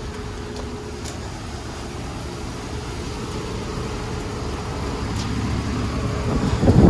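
Outdoor condensing unit of an ICP central air conditioner running: a steady compressor hum with fan noise, growing slowly louder, with a brief loud rush near the end.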